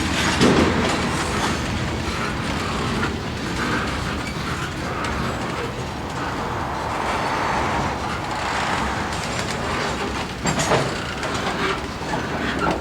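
Freight train rolling past, its cars' steel wheels running on the rails in a continuous rumble with clacking over the joints. A sharper clank stands out about ten and a half seconds in.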